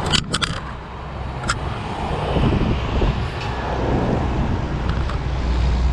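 Steady low rumble of vehicle engines, with a few short sharp clicks near the start and about a second and a half in.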